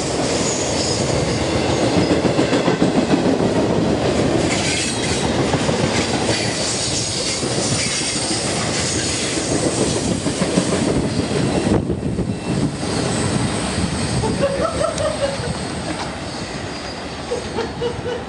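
Railroad train rolling past close by: a steady, loud run of wheel-on-rail noise, with a faint high squeal from the wheels.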